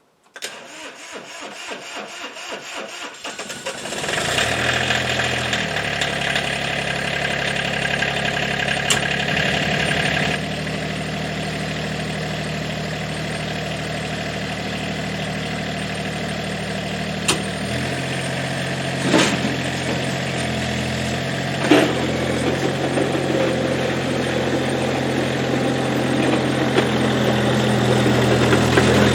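Massey Ferguson GC2300 sub-compact tractor's diesel engine cranked over by the starter, catching about four seconds in and settling into a steady idle; its running note shifts about halfway through, with a few sharp clicks over it.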